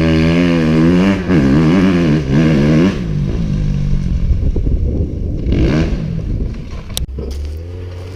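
Dirt bike engine revving up and down, loudest over the first three seconds, then running lower with another short rev near six seconds. A sharp knock comes about seven seconds in.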